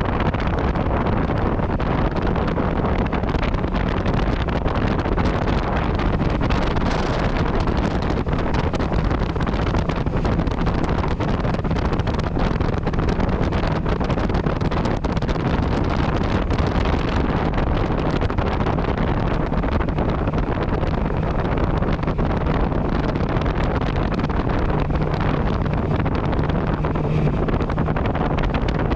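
Yamaha MT-09 Tracer's inline-three engine running under way through its Akrapovic exhaust, heavily mixed with wind rushing over the microphone. The engine note holds steadier near the end.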